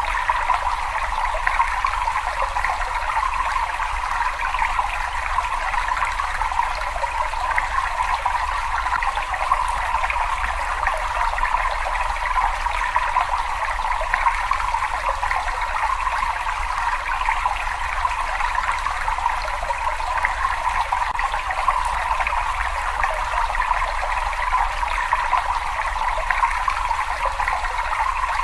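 Water running in a steady, continuous trickle that never changes, its rushing sound centred in the middle range, with a faint low rumble underneath.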